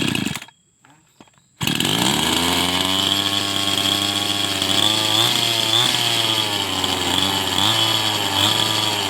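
Small petrol engine on a cheap new carburettor: it cuts out near the start, is silent for about a second, then catches and runs unevenly with several brief throttle blips, its pitch starting to sag near the end. The carburettor will not hold a setting, so the engine won't idle properly.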